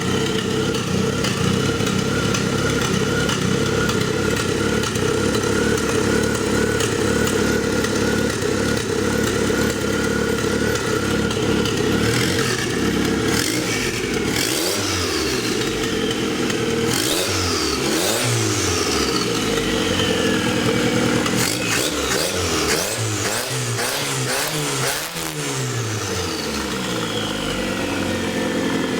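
Turbocharged Tofaş Doğan four-cylinder engine, running on a carburettor, idles steadily and is then blipped again and again, the revs climbing and dropping in quick bursts from about halfway through. A high whistle falls away after several of the blips. The engine is running rich on its first start, which the owners take from the black smoke.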